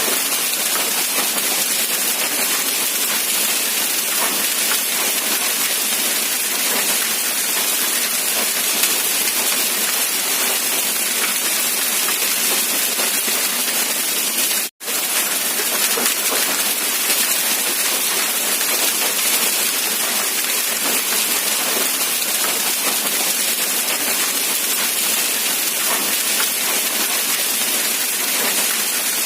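Steady, dense rain hiss with no distinct drops or thunder. It cuts out completely for an instant about halfway through.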